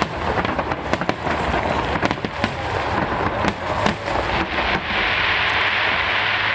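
Aerial fireworks bursting: a rapid, irregular run of sharp bangs and cracks. About five seconds in, a dense, steady hiss takes over.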